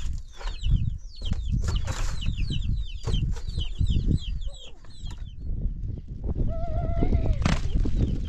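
Poultry chirping: many quick, high, falling chirps through the first five seconds, then a short held call near the end, over low rustling and knocks.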